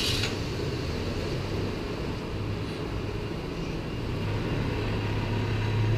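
Triumph motorcycle engine idling steadily just after being started, a little louder in the second half.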